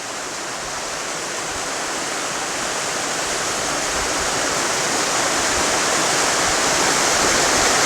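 Tall waterfall on a small creek, rushing steadily and growing gradually louder.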